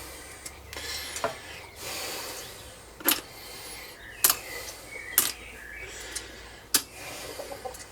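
Several sharp metallic clicks and knocks, spaced a second or two apart, from tools and small parts being handled and set down on a metal workbench.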